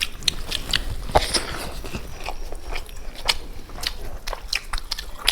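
Close-up mouth sounds of a person biting and chewing food: a quick, irregular run of short wet clicks and smacks.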